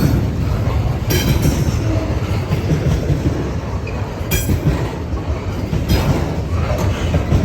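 Norfolk Southern freight train rolling past, its wheels rumbling steadily on the rails with clickety-clack, broken by a few brief sharp metallic noises.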